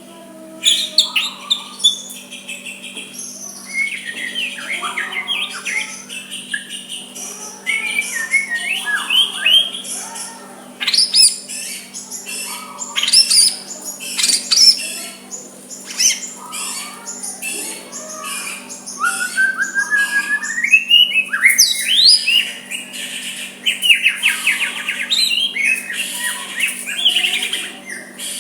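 White-rumped shama (murai batu) singing its soft song without pause: a varied string of clear whistles, rapid trills and chattering notes, with a long rising whistled glide a little past the middle.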